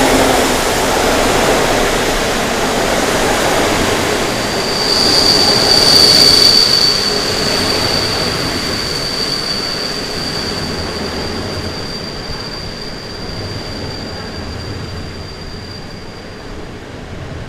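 A train pulling into the platform and slowing, its rumble fading. About four and a half seconds in, a steady high brake squeal begins and holds on to the end as the train comes to a stop.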